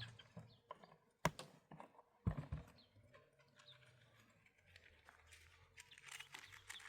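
Two sharp knocks about a second apart, among lighter scattered clicks.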